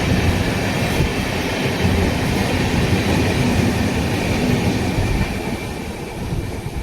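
Train running past on the track at speed: a steady, loud rumble of wheels on rails, easing off over the last second or two as it moves away.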